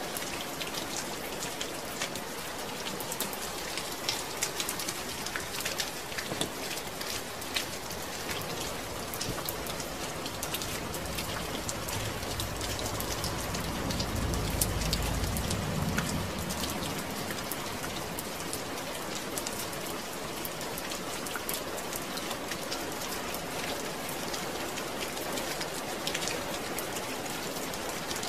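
Steady rain falling on a surface, a continuous hiss dotted with sharp individual drop ticks. A low rumble swells and fades about halfway through.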